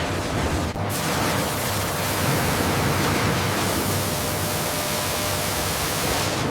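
Steady, loud rushing noise, like a hiss, with a brief break about a second in.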